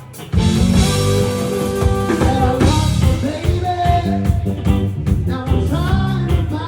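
A band playing a rock song, with drum kit and guitar. After a brief dip, the band comes back in sharply just after the start, and a bending melody line runs over the second half.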